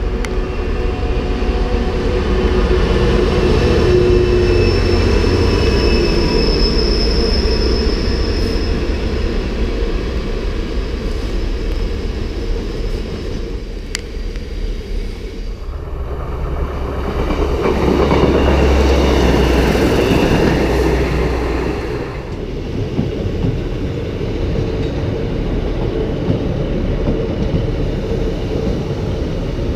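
A Class 66 diesel locomotive hauling a freight train of hopper wagons past, rumbling, with a high wheel squeal in the first few seconds. About two-thirds of the way through it gives way to a Class 156 diesel multiple unit running past the platform.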